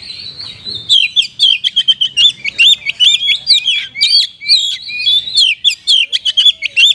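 Oriental magpie-robin (kacer) singing a loud, rapid stream of sweeping chirps and whistles, several notes a second, in a mimicking song style that the bird-keeping trade calls "kacer rasa kapas tembak". The song is thinner in the first second, then runs on densely.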